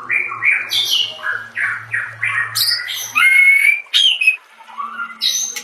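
Songbird singing on a masteran training recording for white-rumped shamas: a quick run of short, harsh chattering notes with a clearer whistled note in the middle, a brief pause, then more notes near the end.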